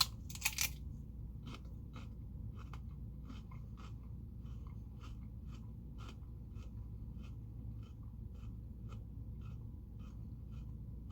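Someone biting into and chewing crunchy food: two loud crunches right at the start, then steady, faint, regular crunching about three times a second.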